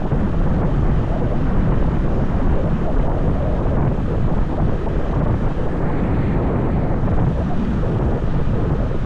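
Wind buffeting the microphone of a moving motorbike, a steady low rumble with the ride's road and engine noise beneath it.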